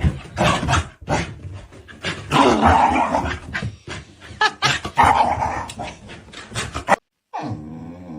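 A dog growling and barking in short bursts, with knocks and clatter between them. The sound breaks off about seven seconds in.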